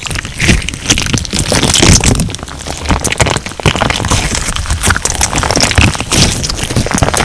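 Crunch slime being squeezed and pressed by hand, a dense run of crackling pops and crunches from the beads and air pockets in the slime, with soft squelches underneath.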